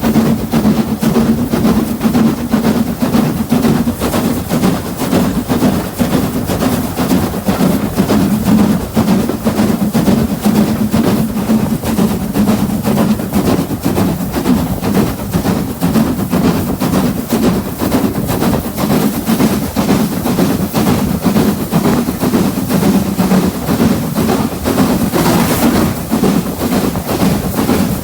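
Train running along the line, a steady low hum with dense rattling clatter throughout, and a short hiss near the end.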